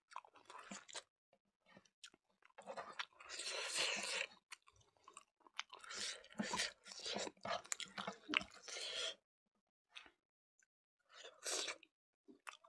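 Close-miked chewing of rice and smoked pork, coming in several bursts with short silent pauses between.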